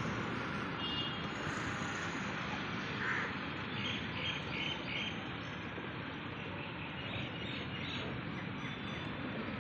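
Birds calling in short repeated calls, a run of four about four seconds in and a few more near eight seconds, over a steady background rumble.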